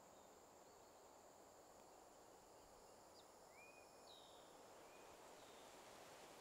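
Near silence: faint outdoor ambience with a few soft, short bird chirps scattered through.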